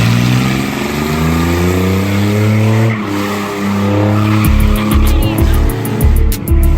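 A car engine revving up fast and held at high revs while the tires squeal, as in a burnout or donut at a street takeover. A deep thudding bass beat comes in about four and a half seconds in.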